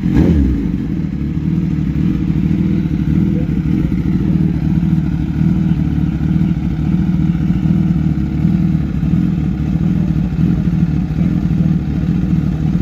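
Suzuki GSX-S1000's inline-four engine running steadily through an aftermarket M4 performance exhaust, with one sharp burst right at the start.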